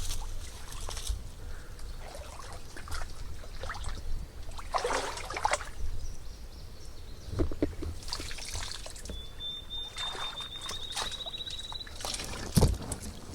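Irregular rustling and crackling, with a steady low rumble underneath. A high, pulsed bird trill, rising slightly in pitch, comes in about nine seconds in and lasts about three seconds.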